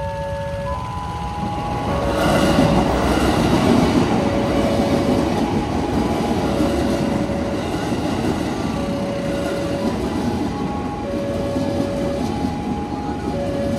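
KRL Commuterline electric train passing over a level crossing. The rumble and clatter of its wheels on the rails rises about two seconds in. Under it, the crossing's electronic warning chime keeps repeating a short tune of steady notes.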